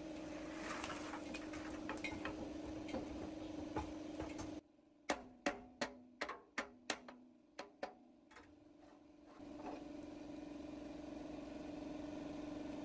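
A power tool's motor running steadily, then stopping abruptly. About ten sharp knocks follow over roughly three seconds, coming about three a second, each dying away quickly. The motor then runs steadily again.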